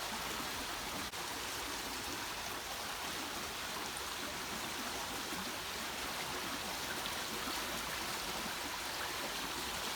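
Steady rushing of a stream, running water with no break.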